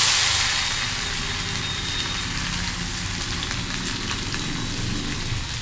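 Crushed ginger, garlic, cumin and coriander paste sizzling in hot oil with mustard seeds, loudest at first, then settling to a steady sizzle: the tempering (phodni) of the dish.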